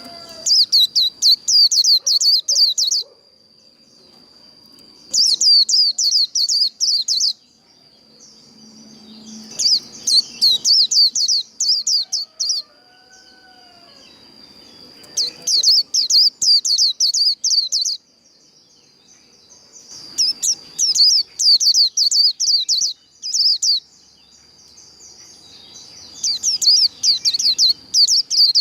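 White-eye (vành khuyên) singing its fast, high 'líu' warble in six bursts of about two to three seconds each, separated by short pauses.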